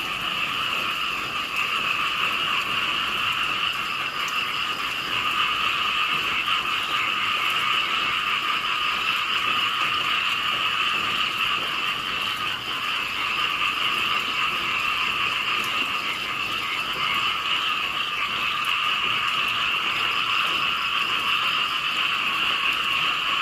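Many small frogs calling together in a dense, loud chorus, a steady din with no breaks.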